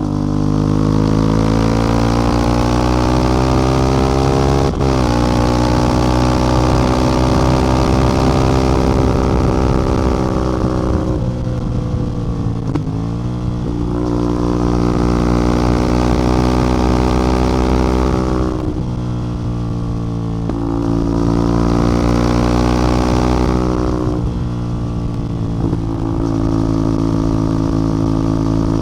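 CF Moto 450MT's parallel-twin engine and exhaust under way. The engine note climbs under acceleration, breaks briefly at a gear change about five seconds in, then falls and pulls up again several times as the throttle is rolled off and on.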